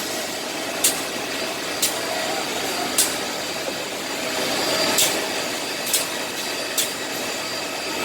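Six-sided CNC drilling machine for wood panels running: a steady mechanical noise broken by short, sharp high-pitched bursts roughly once a second.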